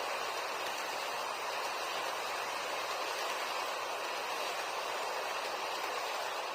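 HO-scale model freight train with an EF210-300 electric locomotive running along the track: a steady rushing whir of wheels and motor, with no rail-joint clicks.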